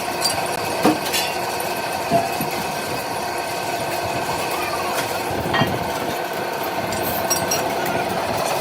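A machine running steadily with a steady whine, with a few sharp metallic knocks about one, two and five and a half seconds in.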